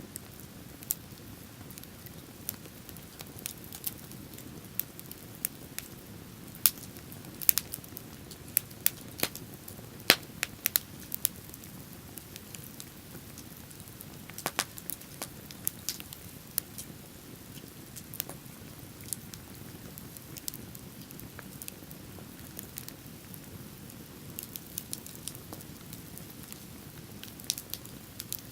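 Wood bonfire crackling, with irregular sharp pops and snaps, the densest and loudest run between about 6 and 12 seconds in, over a steady low rush.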